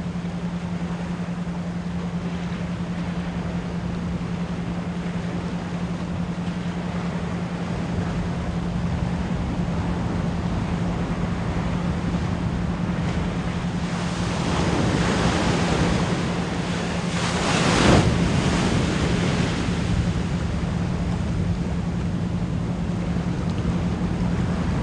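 Ocean waves washing in, with one wave swelling and breaking louder from about 14 to 19 seconds in. Under them runs a steady low pure tone at 174 Hz.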